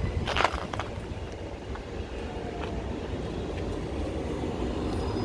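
Class 377 electric multiple unit running at the station with a steady low rumble; a brief sharp sound stands out about half a second in.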